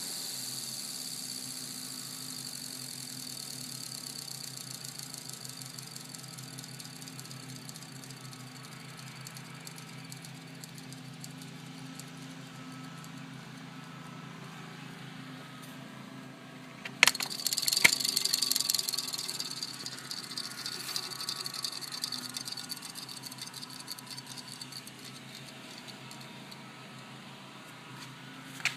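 Aloha Breeze 7-inch table fan running steadily, with a low electric-motor hum and a faint high whine. About 17 seconds in there is a sharp click and a few seconds of louder rattling before the fan settles back to its steady hum.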